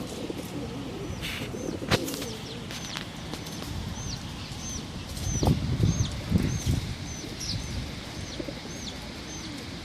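Small bird chirping a short high note about twice a second, steady and repeated, with a burst of wing flapping in the middle and a single click about two seconds in.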